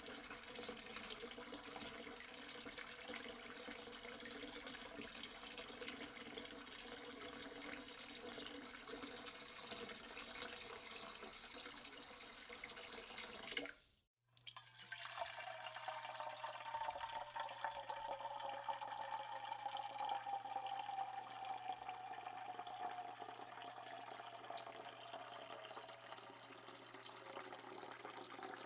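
Water running from a tap into a sink: a steady splashing hiss that breaks off about halfway through. It gives way to another running-water recording with a slowly falling tone and a low steady hum under it.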